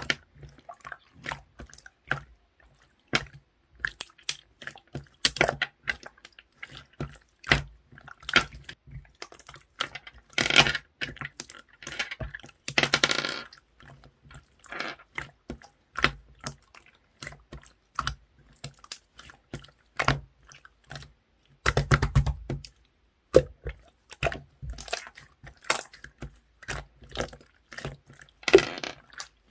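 Clear slime mixed with ice-cube-like parts being squeezed and kneaded by hand: a run of irregular wet clicks and pops, with a few longer squelching crackles.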